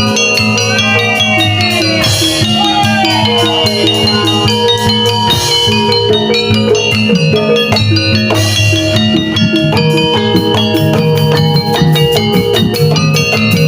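Jaranan dance accompaniment music: a bright metallic mallet melody in the manner of gamelan metallophones over a steady drum beat, with some sliding pitched notes in the first few seconds.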